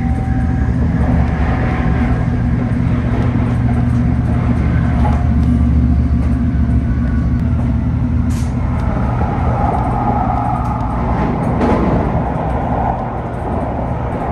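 Tokaido Shinkansen train running at speed, heard inside the passenger car: a steady, loud low rumble of running noise that drops a little near the end.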